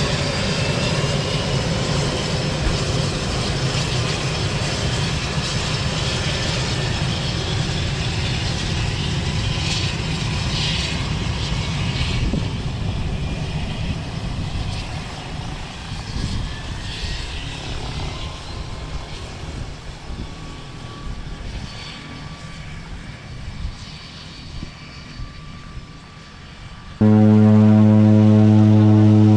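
Float plane's propeller engine running loud, then fading away over about ten seconds as the plane leaves. Near the end, a loud steady hum cuts in abruptly.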